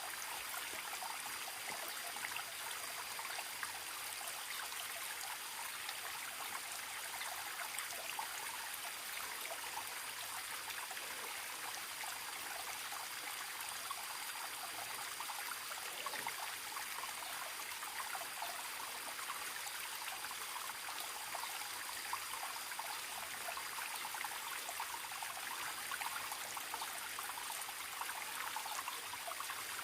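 Small forest stream trickling and splashing steadily over a faint, steady high-pitched tone.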